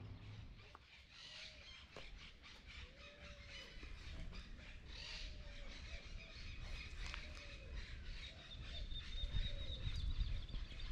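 Birds calling in the open: a short, low, arched call repeated about once a second, with higher chirps and twitters over it and a thin, steady high call near the end.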